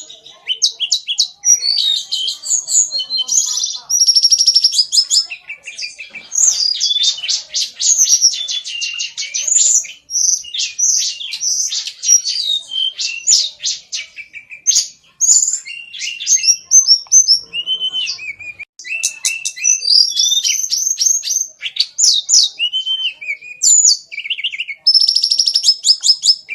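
Pet cockatiel chirping and whistling almost without pause, in fast chattering trills mixed with short rising and falling whistled notes.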